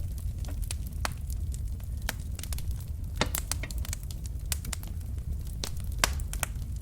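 Wood fire of burning logs in a fireplace crackling: irregular sharp pops and snaps over a steady low rumble of the flames, with a few louder pops about one, three and six seconds in.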